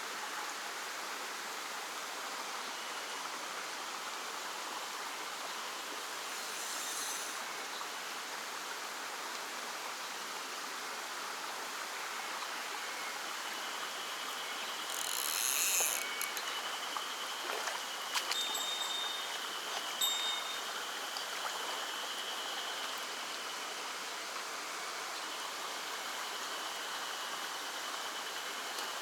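Small mountain stream running, a steady rush of water over rocks.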